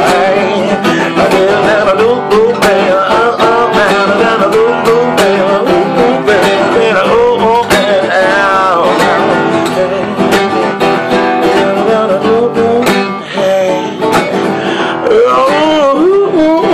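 Strummed acoustic guitar with a sung melody over it.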